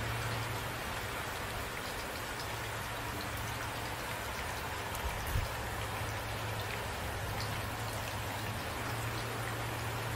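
Steady rain falling on surfaces, an even hiss with scattered drop sounds and a couple of brief low thumps about five seconds in.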